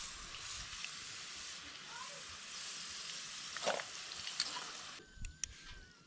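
Fries sizzling steadily as they deep-fry in hot oil in a wok, with a single sharp clink near the middle. The sizzling cuts off suddenly about five seconds in, as the fries are lifted out of the oil.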